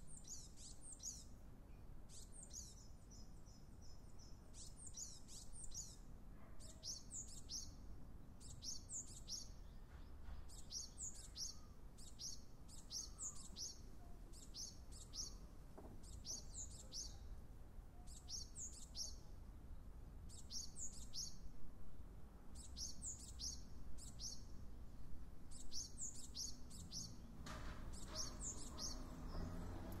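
A bird calling over and over: short, high-pitched chirping phrases, each a quick run of falling notes, repeated about once a second over a faint low background rumble.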